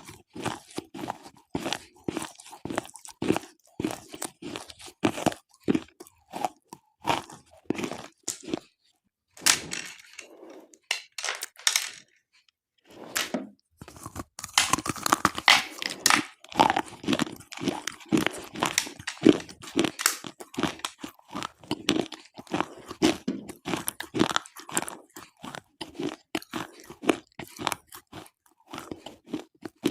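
Slate pencils being bitten and chewed close to the microphone: rapid, repeated crunching and brittle snapping, with brief pauses about a third of the way in.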